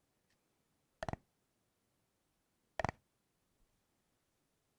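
Two brief light knocks, each a quick double click, about two seconds apart: a thick chocolate bar being set down and handled on a hard surface.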